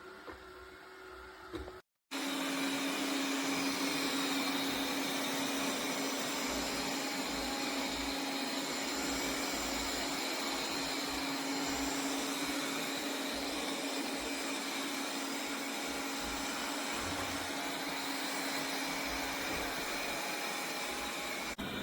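Tikom L8000 Pro robot vacuum cleaning, its suction fan giving a steady whirring noise with a hum under it. The sound starts after a short break about two seconds in.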